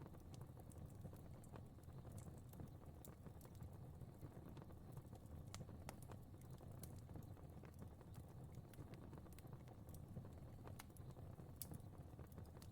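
Faint fireplace fire crackling: a soft, steady low rumble of flames with scattered, irregular sharp pops and ticks.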